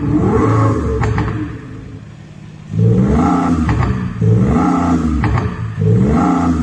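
Volkswagen CC revved in quick blips with an Xhaust active sound system playing an electronic exhaust note through its exhaust speakers: about four revs, each rising and falling in pitch, with a brief quieter lull before the middle.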